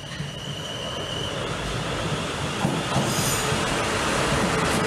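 South Western Railway Class 450 electric multiple unit running into the platform, its wheels and rails rising steadily in loudness as it nears. A steady high whine from the rails stops a little over a second in, and a short high hiss comes about three seconds in.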